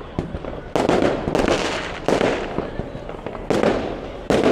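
New Year fireworks going off in quick succession: about five loud bangs at uneven intervals, each trailing off in a fading crackle and rumble.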